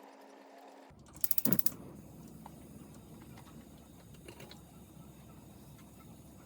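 A quick run of sharp clicks, about ten in half a second, a little over a second in, then a low steady background noise with a few faint taps.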